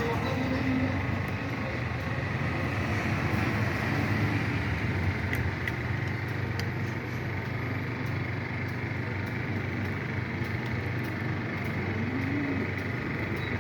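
Steady low rumble of background noise, with faint pigeon cooing near the start and again near the end.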